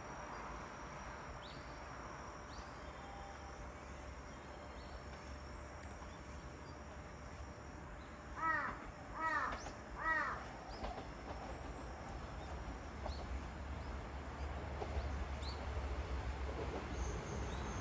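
A bird calls three times, about a second apart, over a steady low outdoor rumble that grows slightly louder toward the end, with a few faint high chirps from other birds.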